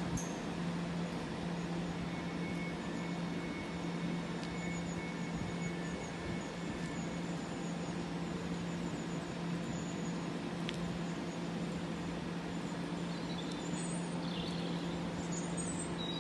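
Steady low hum over an even background rumble, typical of an electric train or trackside equipment at a railway station, with a few faint high chirps near the end.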